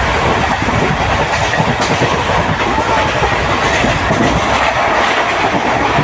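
Passenger train running, with steady rumble and wheel clatter over the rails.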